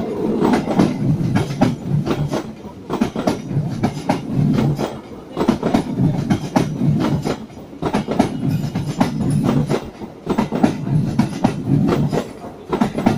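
Passenger coaches of a train rolling past, their steel wheels clacking over rail joints in repeated clusters over a steady low rumble.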